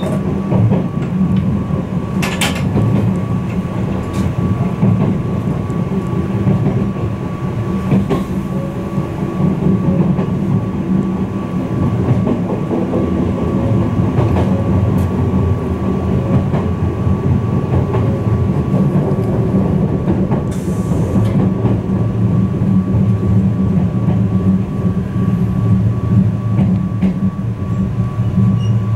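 Izukyu 2100 series 'Resort 21' electric train running, heard from inside the car: a steady low rumble of the wheels on the rails, with a faint steady tone and occasional clicks.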